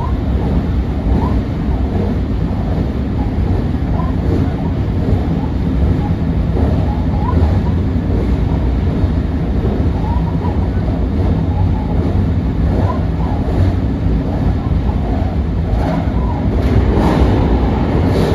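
Running noise of a JR rapid Marine Liner electric train heard from inside the carriage as it crosses a steel truss bridge: a loud, steady low rumble of wheels on rails. Near the end it swells into a louder rushing as another train passes close alongside.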